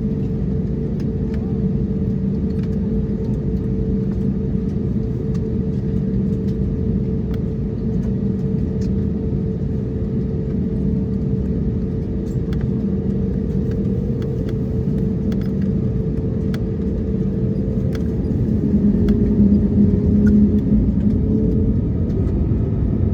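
Steady engine and airflow rumble inside an Airbus A321neo's passenger cabin, with a steady hum over it and a few faint clicks. About eighteen seconds in, the hum shifts lower and the rumble grows a little louder.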